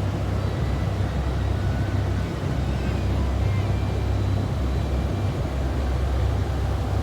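Low, steady rumble of the T-33 Shooting Star's turbojet engine as the jet flies its display.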